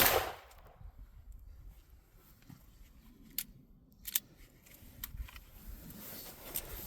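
A single 9mm pistol shot, fired from a 3-inch barrel with a solid copper round into a car door, right at the start; its echo dies away within about half a second. After that, only a few faint clicks and handling sounds.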